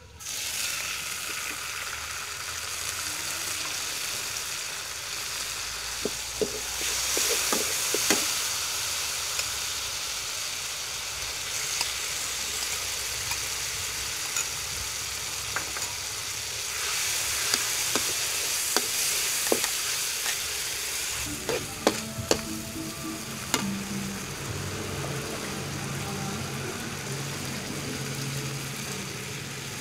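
Chopped garlic sizzling hard in a hot steel wok, the hiss starting suddenly as oil is poured in. Short scrapes and taps of the metal spatula against the wok come through as it is stirred, and the sizzle swells twice.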